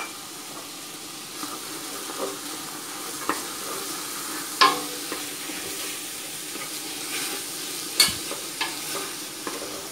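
Chopped vegetables sizzling in a stainless steel pot with sweet soy sauce just added, stirred with a utensil. A few sharp knocks of the utensil against the pot sound about halfway through and again near the end.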